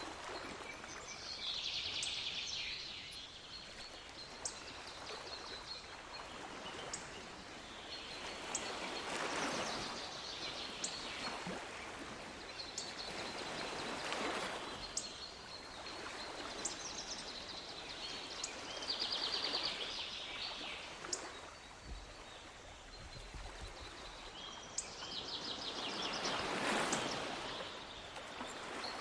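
Small waves washing in and drawing back, swelling every few seconds, with songbirds trilling and chirping over them, three longer trills near the start, the middle and near the end.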